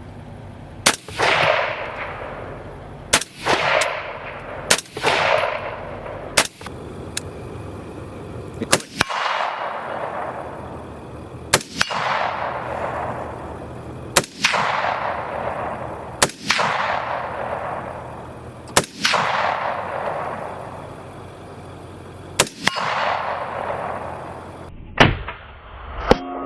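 Firearm shots fired one at a time, about a dozen in all, every two to three seconds. Each sharp crack is followed by a long echo rolling away across open ground. Near the end the sound cuts abruptly to a duller, muffled noise.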